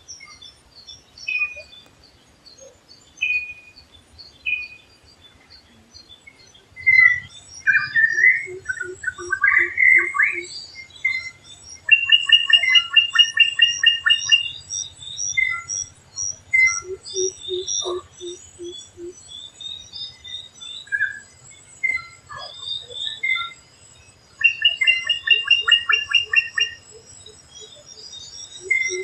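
Mixed forest bird chorus. Short high chirps go on throughout, loud whistled warbling phrases come about eight seconds in, and a fast rattling trill comes twice. A different bird gives runs of low, evenly spaced hooting notes, about four a second, three times.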